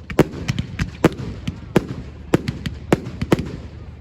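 Fireworks going off in a quick, irregular run of sharp bangs, about three a second.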